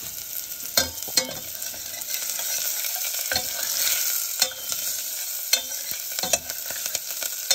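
Green chilies and garlic sizzling in hot ghee with mustard and cumin seeds: a steady frying hiss, while a metal spoon stirs in the stainless steel saucepan. Sharp clicks come now and then.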